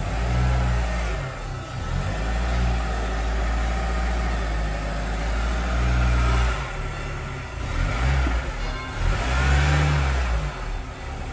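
Volkswagen Golf Cabriolet engine running at low speed and revving up and down as the car creeps out of a tight spot, with a low rumble that swells several times.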